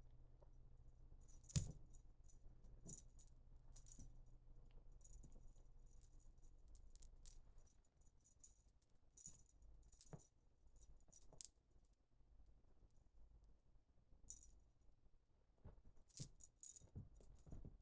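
Dangling cat toy jingling and rattling faintly in short, irregular bursts as a kitten grabs, kicks and bites at it, with one thump about a second and a half in.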